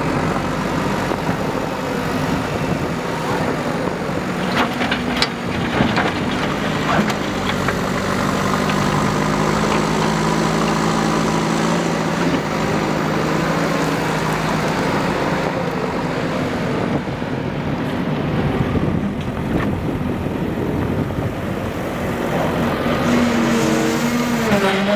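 Diesel engine of heavy earthmoving machinery running steadily, with a few sharp knocks about five to seven seconds in.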